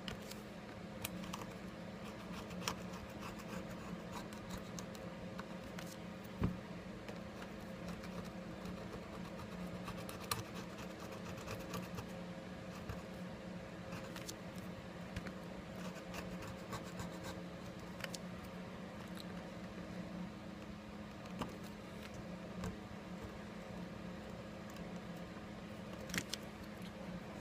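Small hand tool scratching and scraping old adhesive and double-sided tape off a Samsung Galaxy S5's frame, with scattered light clicks and ticks over a steady low hum.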